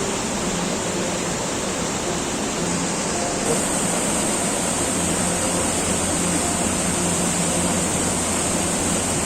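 Waterfall: a steady rush of falling water, its tone shifting slightly about three and a half seconds in.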